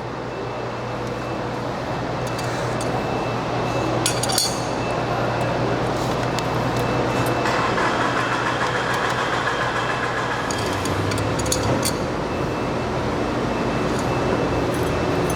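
Steady shop background hum and hiss, with a few light metallic clinks about four seconds in.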